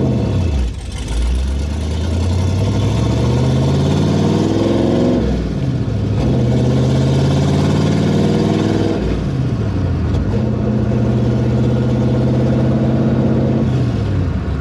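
Pontiac Trans Am engine accelerating through the gears: the pitch climbs, drops at a gear change about five seconds in, climbs again, drops at another change about nine seconds in, then holds steady at cruising speed.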